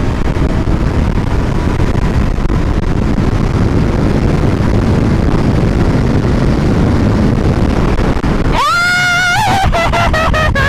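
Wind and road noise roar on the microphone of a Honda CBR500R's rider at speed. Near the end, the bike's 471 cc parallel-twin engine revs up in a rising whine, broken by a few quick gear changes.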